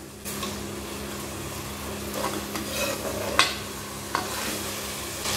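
Chopped tomatoes sizzling in hot oil and ghee in a pressure cooker while a steel ladle stirs them, with a few light knocks and scrapes of the ladle against the pan.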